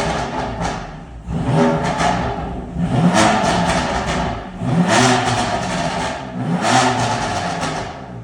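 A car engine revved four times in a row, the pitch rising and falling with each blip of the throttle.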